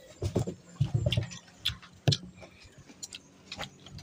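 Crisp green Indian mango being bitten and chewed close to the microphone: a scatter of short crunchy clicks.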